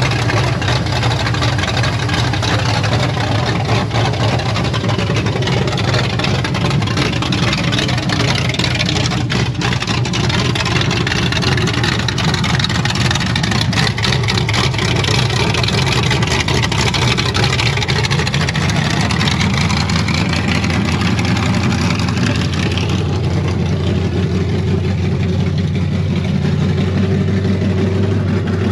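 Chevrolet C10 pickup's engine running steadily after being started for the first time in eight years of sitting.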